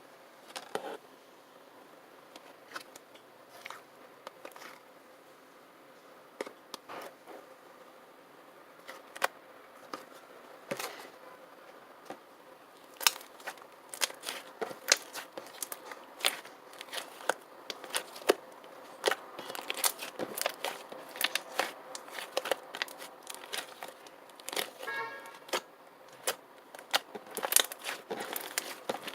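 Irregular sharp clicks and taps, sparse at first and coming thick and fast over the second half, with a brief pitched squeak-like tone near the end.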